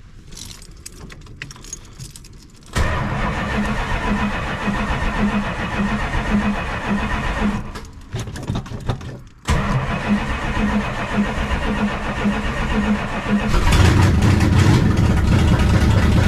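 1968 Dodge Charger's 383 big-block V8 being cold-started with the exhaust cutouts closed: the starter cranks it in an even rhythm for about five seconds, stops briefly, cranks again, and the engine catches near the end and runs.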